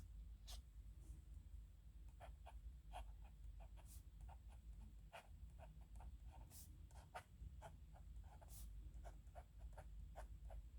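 Pen nib scratching on paper in quick, irregular short strokes as characters are hand-written, over a faint low hum.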